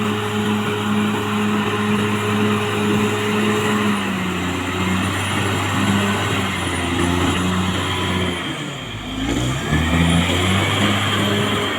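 Caterpillar D6R XL bulldozer's diesel engine running steadily at work; its pitch shifts about a third of the way in, then dips briefly and climbs back again near the end.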